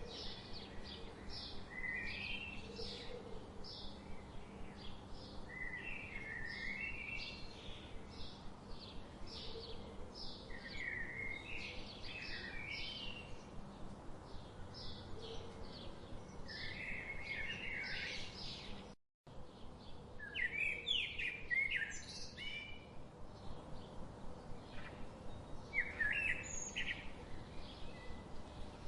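A chorus of several songbirds chirping and trilling in quick, overlapping short notes, over a soft background hiss. The sound cuts out completely for a split second about two-thirds of the way through, then the chirping resumes.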